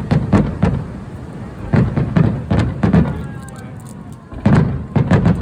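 Aerial fireworks bursting: about ten sharp bangs in quick clusters, each followed by a low rumbling echo.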